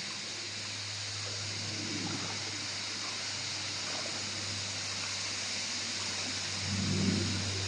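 Steady rush of water from a jungle stream and waterfall.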